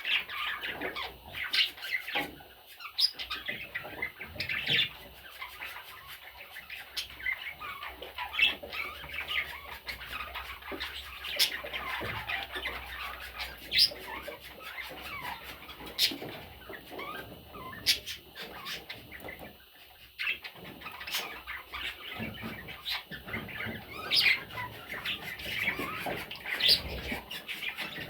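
Budgerigars, chicks among them, chirping and squawking in a continuous, irregular chatter, with a few sharp ticks now and then.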